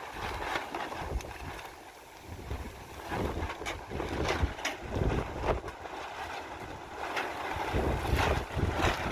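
Wind gusting against the microphone, with low buffeting rumble that swells and eases, and a few short knocks or scuffs through the middle and near the end.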